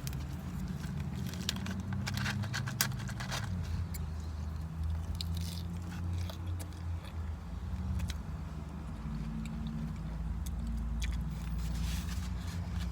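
Crunching and chewing of tortilla chips from nachos, with fork clicks and scrapes, most dense in the first few seconds. A steady low rumble runs underneath.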